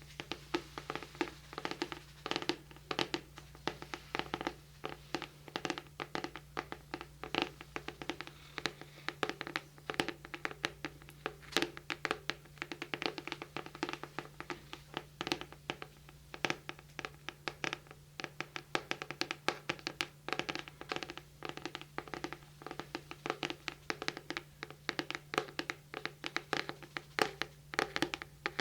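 Fingertips and nails tapping and scratching rapidly, close up on a binaural microphone, several light taps a second without a break.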